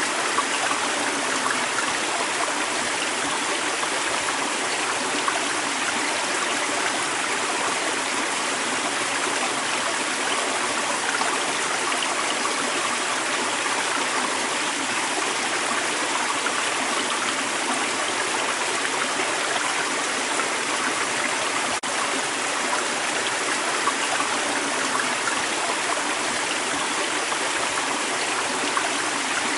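Creek water running steadily over rocks, a continuous rushing and burbling flow.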